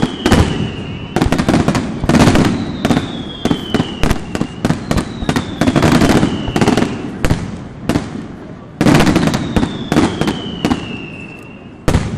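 Aerial firework shells bursting in quick succession, loud bangs and crackle with a low rumble between them. Several high whistles, each about two seconds long, slide slowly down in pitch between the bangs.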